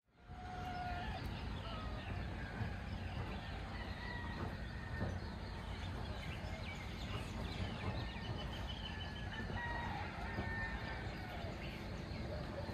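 Birds chirping and calling in many short, separate calls over a steady low background noise.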